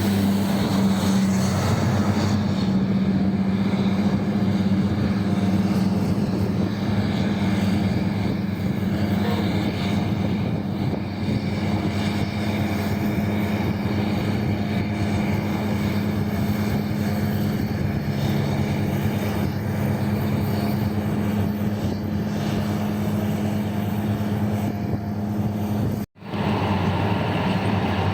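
Heavy mining machinery diesel engines running steadily with a low, even hum, broken by a brief cut to silence near the end.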